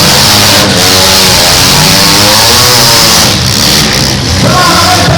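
Several demolition derby car engines revving hard together, their pitch rising and falling.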